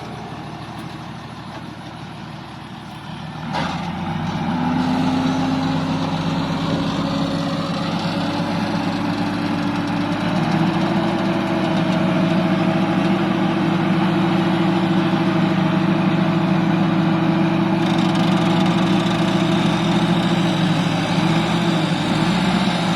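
Heavy diesel engine running steadily. It grows louder about three and a half seconds in, climbs in pitch over the next several seconds, then holds at the higher speed.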